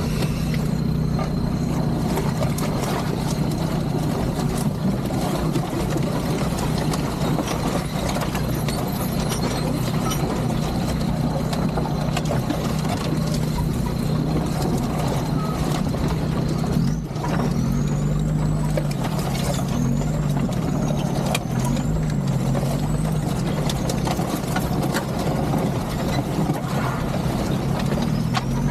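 Land Rover Discovery 2 Td5 turbodiesel engine labouring steadily at low speed over a rough lane, with knocks and rattles throughout. From about two-thirds of the way in, the revs rise and fall several times, and a high whine follows the engine's pitch.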